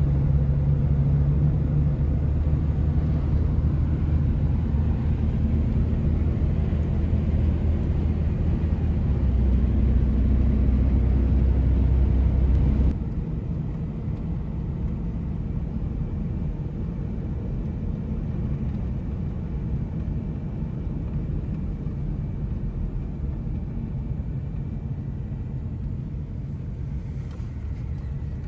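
Road vehicle driving, its engine and tyre rumble heard from inside the cab as a steady low drone. About halfway through it drops abruptly to a quieter, similar rumble.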